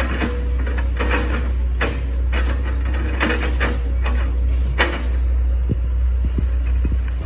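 Hitachi ZX110 excavator's diesel engine running steadily while its bucket chops into an oil palm trunk: a series of sharp crunching cracks, roughly one a second for the first five seconds, then a few light clicks.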